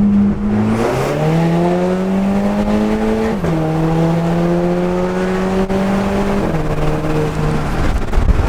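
Audi TT Mk2's 2.0 TFSI turbocharged four-cylinder through a straight-pipe exhaust under a full-throttle kick-down, heard from inside the cabin. The revs climb from about a second in, drop sharply at a DSG upshift about three and a half seconds in, climb again and drop at a second upshift near six and a half seconds, then hold steady.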